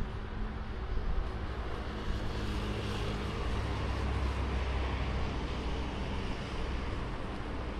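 A motor vehicle's engine running with a steady low rumble, the noise swelling a few seconds in and easing again as it passes.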